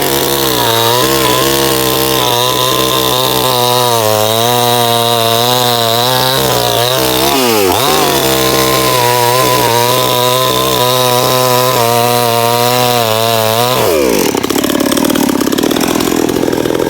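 Small Stihl chainsaw running at high revs while cutting through wood, its note wavering under load. The revs dip briefly about halfway through and pick up again, then fall away about fourteen seconds in.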